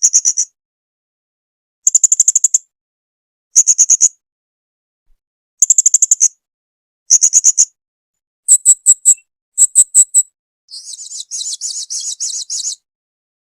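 Blue-crowned hanging parrot (serindit) calling: short bursts of several rapid, high-pitched chirps, repeated every second or two, with a longer, buzzier twittering run near the end.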